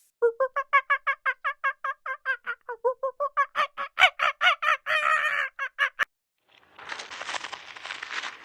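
Domestic fowl calling in a rapid run of repeated notes, about six a second, for about six seconds, with the last notes louder and harsher. A rough, scratchy noise follows after a short pause.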